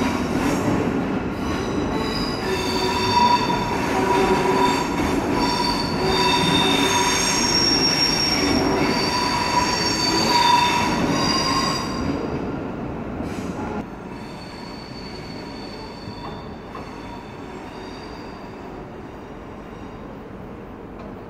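ICE high-speed train rolling past, its wheels squealing in several high, steady tones over the rumble of the cars. The sound dies down about two-thirds of the way through as the last car goes by, leaving faint squeals.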